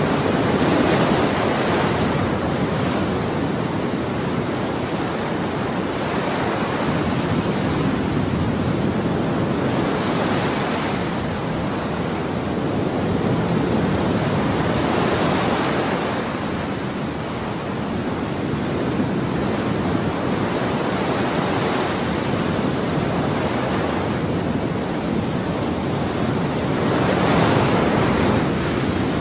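Ocean waves washing onto a shore: a continuous rushing hiss that swells as each wave breaks, every few seconds.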